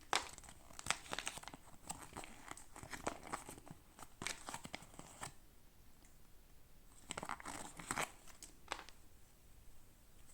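Toy packaging being crinkled and torn open by hand in short bursts of rustling. It pauses for a couple of seconds midway, then there is another burst about seven seconds in.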